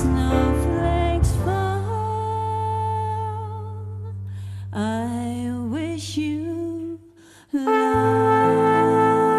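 Jazz band playing instrumentally: held chords over a steady bass note, with a brass line swelling upward in a gliding, wavering phrase about five seconds in. The music almost drops out for a moment near seven seconds, then a full held chord comes back in.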